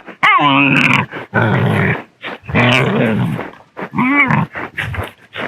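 Dogs play-fighting: rough growling with high whines and yelps, in several loud bouts with short breaks.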